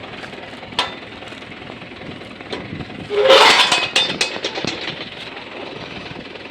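Tractor engine idling steadily, with a sharp metal clank about a second in and a louder cluster of metal knocks and rattles around the middle, from the harrow's hitch pins and linkage being handled.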